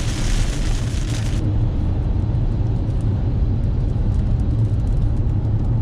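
Car driving, heard from inside the cabin on a rainy day: a steady low road-and-engine rumble. A high hiss stops abruptly about a second and a half in.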